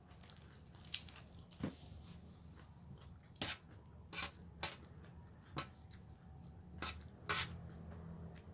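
Close-up eating sounds of raw vegetable salad being chewed: about eight short crunches and wet clicks at uneven intervals.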